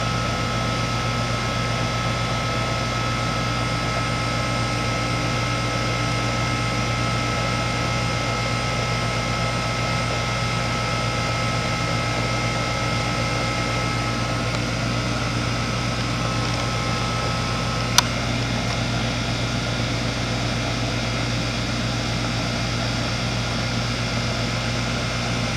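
2004 Goodman 3.5-ton heat pump outdoor unit running in heating mode, its Copeland reciprocating compressor and condenser fan making a steady hum with a few steady whining tones above it. A single sharp click comes about three-quarters of the way through, and one of the higher tones stops after it.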